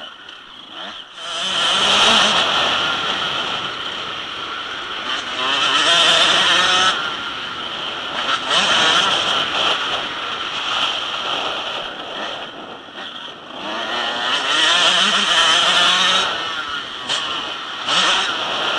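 Motocross bikes racing on the track, engines revving up and falling back in several loud surges as riders go past.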